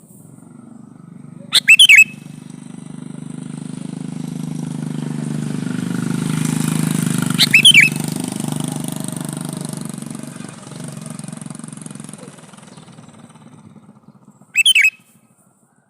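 Sooty-headed bulbul calling three times, each a short, very loud phrase of a few quick notes, about six seconds apart. Under it a low engine hum of a passing vehicle swells and fades away.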